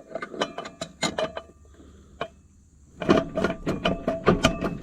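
Hand tools clicking and knocking on metal while working the tractor's belt pulley nut loose. Scattered knocks come first, then about three seconds in a quick run of rapid, ringing metallic clicks.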